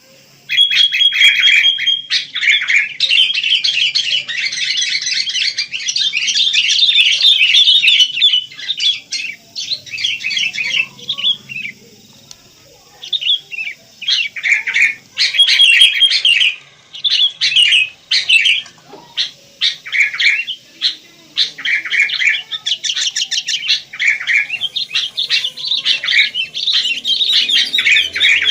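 Sooty-headed bulbuls (kutilang) calling together: dense, overlapping chirps and squawks in bursts with short pauses, with a brief steady whistled note near the start and another about halfway through.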